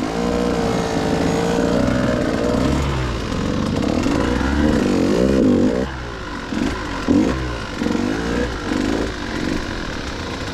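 KTM 150 two-stroke enduro dirt bike engine being ridden, its revs rising and falling again and again, with a short drop in revs about six seconds in.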